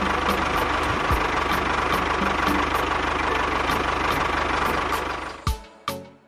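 An engine running steadily with a fast, even pulse, dying away about five and a half seconds in; a few short pitched blips follow near the end.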